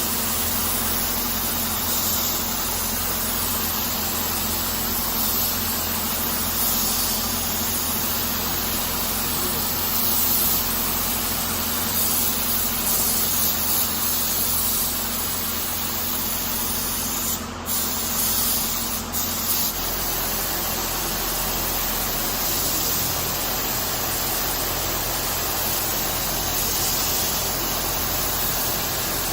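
Paint spray gun hissing steadily as it sprays clear coat, over a steady low hum. The hiss breaks off twice, briefly, a little past halfway through.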